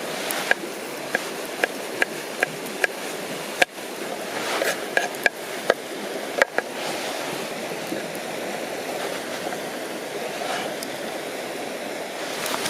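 River water running steadily. Over it come a series of short, sharp taps, about two a second for the first three seconds, then one louder knock and a few scattered taps before the middle.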